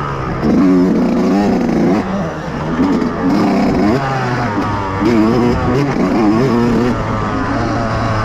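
Dirt bike engine revving, its pitch rising and falling several times as the throttle opens and closes.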